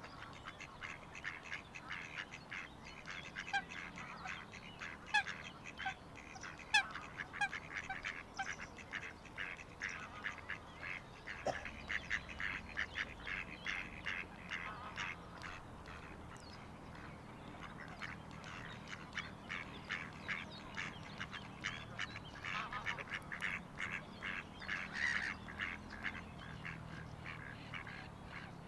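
A flock of waterfowl calling continuously, many rapid overlapping calls at once, with a short run of clear falling whistled notes about five to eight seconds in.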